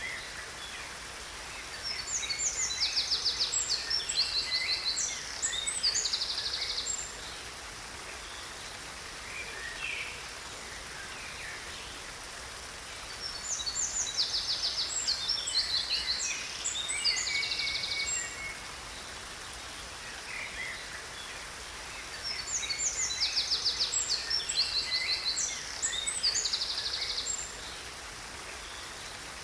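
A songbird singing three long phrases of rapid, high trills and chirps, about ten seconds apart, over the steady rush of falling water.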